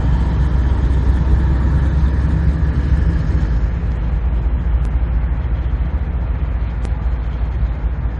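Steady low rumble of a departing freight train, its rear GE ES44AC diesel locomotive running as it goes by. The higher part of the sound eases off after about three seconds, leaving the low rumble.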